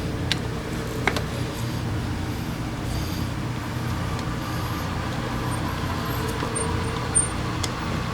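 Italjet Griffon GF125's engine running steadily at idle, restarted after its clogged carburetor was cleaned. A few light clicks sound over it.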